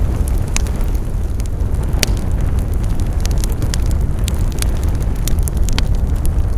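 Wood fire crackling, with many sharp pops and snaps over a steady low rumble of the flames, one louder snap about two seconds in.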